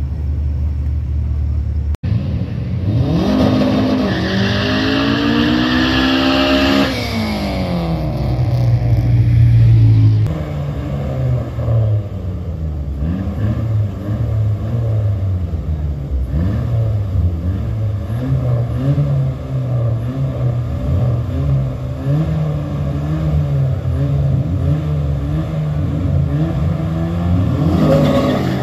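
Street-race cars' engines at the start line. About three seconds in, one engine revs hard and climbs in pitch for about four seconds. After that the engines idle and are blipped up and down over and over while the cars are staged, rising again near the end.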